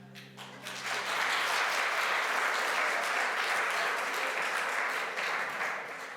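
Audience applauding as the music ends, clapping that swells about a second in, holds, and fades near the end.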